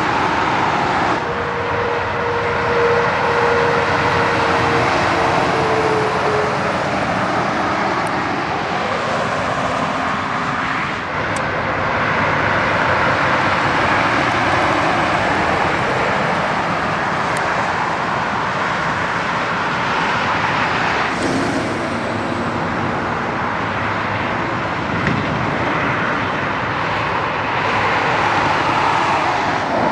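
Highway traffic going past at speed: a steady roar of tyres and engines from trucks and cars. A whine from one passing vehicle sinks slowly in pitch a few seconds in.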